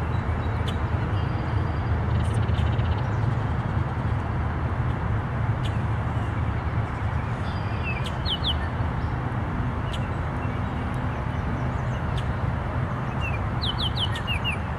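Short high bird chirps in quick runs of three or four, about halfway through and again near the end, over a steady low rumble and hiss of outdoor background noise.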